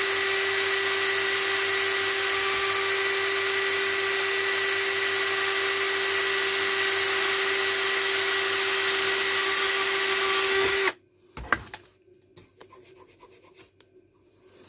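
Electric power tool running steadily while scouring rust off a chrome bike nut. It cuts off suddenly near the end, followed by a few light knocks.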